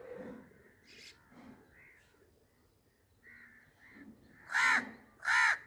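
A bird giving short, harsh calls: several faint ones, then two loud calls close together near the end.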